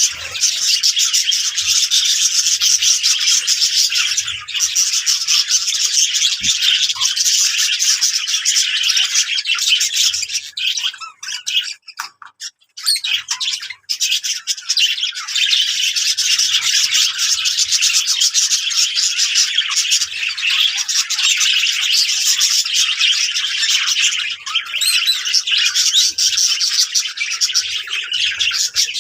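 Budgerigars chattering and warbling in a dense, continuous stream, with a brief lull about twelve seconds in.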